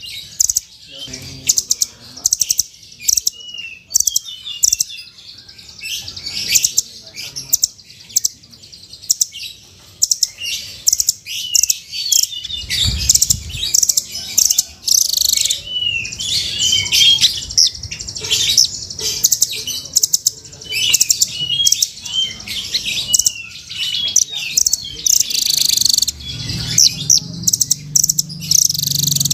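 Velvet-fronted nuthatch (rambatan) calling: a dense run of sharp, high chirps and quick trills, repeated in rapid bursts. A low rumble comes in near the end.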